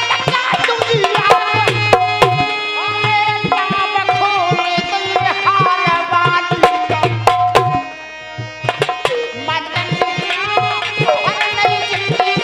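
Instrumental interlude of Dhola folk music: a steady hand-drum rhythm under a melodic instrument playing a bending, ornamented tune. The music thins out briefly about two-thirds of the way through.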